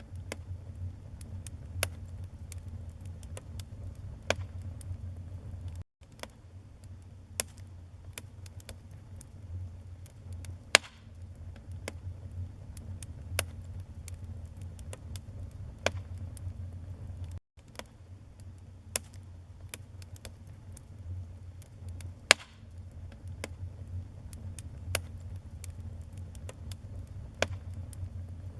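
Wood fire in a fireplace crackling: irregular sharp pops over a low steady rumble, with a few louder pops about eleven and twenty-two seconds in. The sound cuts out for an instant twice.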